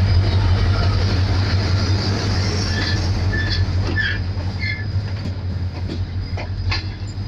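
A diesel-electric locomotive's engine drones low and fades as it pulls slowly away past a station platform, its coaches rolling by. Short high squeals from the wheels come about three to four and a half seconds in, then a few sharp clicks as the wheels cross the track.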